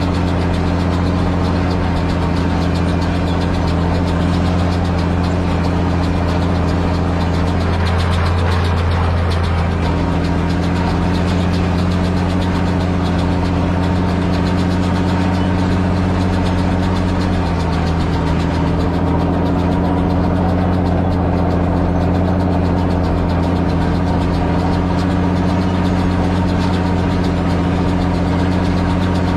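Same Titan 160 tractor's air-cooled six-cylinder diesel engine running steadily under way, its speed dropping slightly about two-thirds of the way through.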